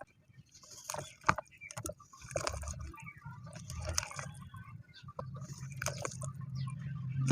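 Crumbly cement-like material being crushed: an irregular run of gritty crunches and crackles, over a steady low hum.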